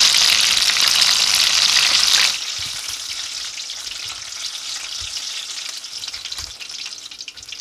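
Battered, stuffed chili peppers deep-frying in hot oil: a loud, dense sizzle that drops suddenly to a quieter crackle a little over two seconds in.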